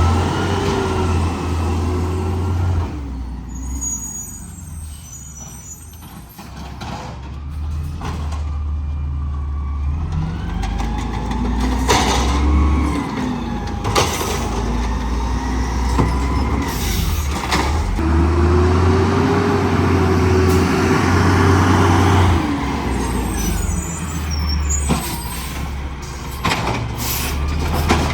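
Garbage truck at work: its diesel engine runs and revs up and down, with a whine that rises and falls several times. Sharp knocks and bangs of metal come through near the middle and again toward the end.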